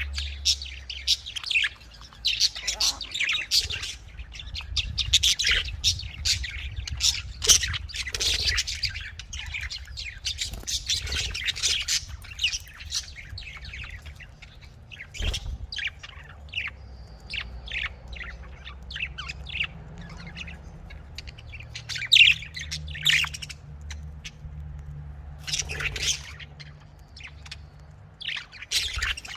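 Budgerigars (Australian parrots) chirping and chattering in quick, high, overlapping calls. The calls are dense for the first half and come in sparser bursts later, over a faint low hum.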